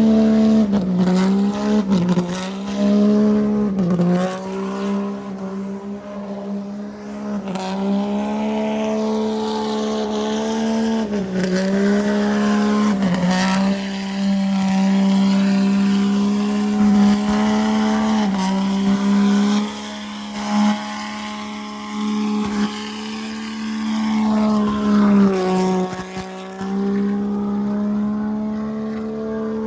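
A vehicle's engine held at high, steady revs during a burnout, the note dipping briefly about six times as the throttle is eased and picked up again, with the hiss of spinning tyres over it.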